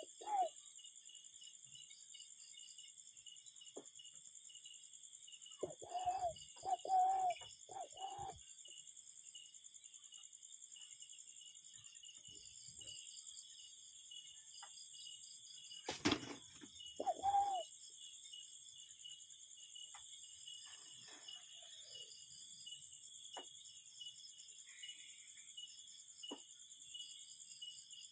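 Cuckoo calling, a quick run of about four short pitched calls a third of the way in and one more call just after halfway, over a steady high, pulsing insect drone. A single sharp knock comes just before the later call.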